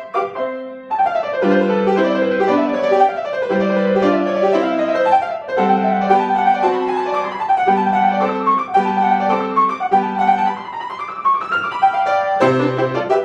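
Solo piano playing a melody over repeated low chords, with a quick run up and back down near the end.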